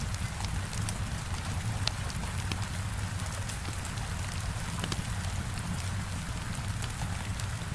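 Heavy rain falling steadily on a window, mixed with a fireplace fire crackling: an even hiss with scattered sharp clicks and a low rumble underneath.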